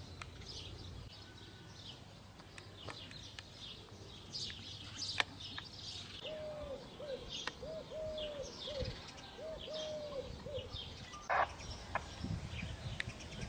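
Birds calling outdoors: many quick, high chirps throughout. From about six to eleven seconds in, another bird gives a run of short, low cooing notes, about two a second.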